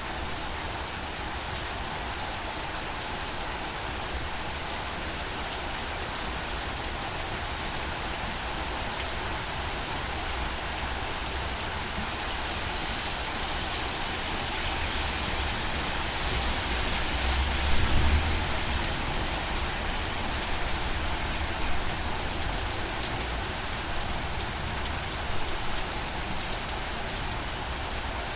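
Steady rain falling and pattering on a surface, an even hiss of drops. A few short low thumps stand out about two-thirds of the way through.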